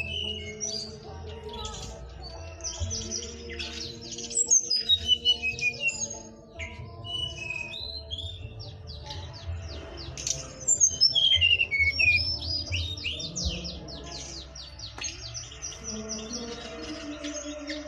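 A songbird in full, nonstop song: a dense run of quick chirps, whistles and trills, loudest in two stretches around five and eleven seconds in. Steady low tones run underneath.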